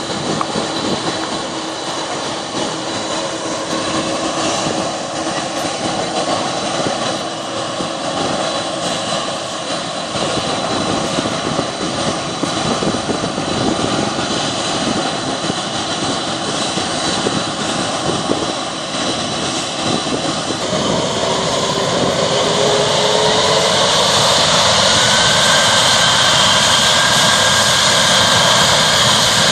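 Boeing 747-400's four jet engines running at low power with a steady roar and whine. About 21 seconds in they spool up: the whine rises in pitch and the sound grows louder and holds, typical of the engines being throttled up for takeoff.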